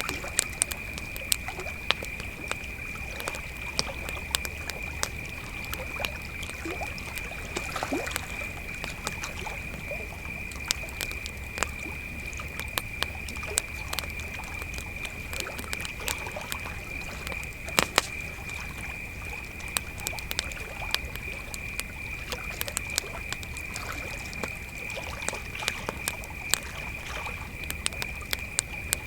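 A steady chorus of crickets chirping, with a campfire crackling and popping in irregular sharp snaps throughout. A short call slides downward about eight seconds in.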